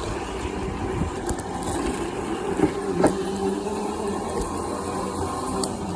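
Homemade electric motorbike's 24-volt DC motor running under power as the bike rides, a steady hum over a low rumble, with a few sharp clicks.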